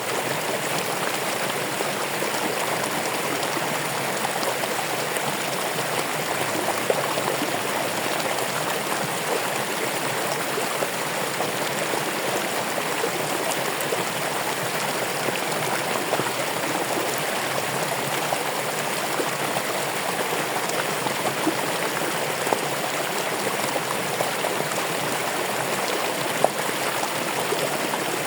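Stream water running steadily, an even rushing and babbling with a few small splashes.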